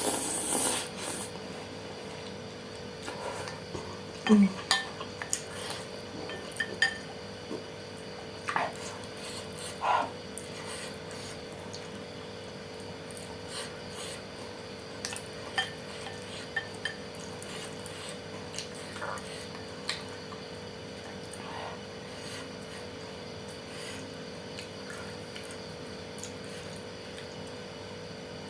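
Close-up eating sounds: a utensil clinking against a bowl and soft wet slurping and chewing of saucy noodles with bean sprouts, in scattered short clicks that are loudest and busiest in the first ten seconds, over a steady faint hum.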